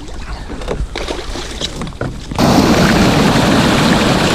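Scattered small knocks and splashy ticks, then a little past halfway a sudden switch to a loud, steady hiss of heavy rain falling on the kayak and the camera.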